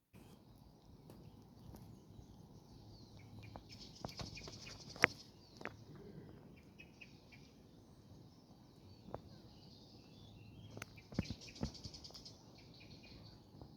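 Small birds chirping in two busy spells over a low, steady outdoor background, with a few sharp clicks, the loudest about five seconds in and a cluster near the end.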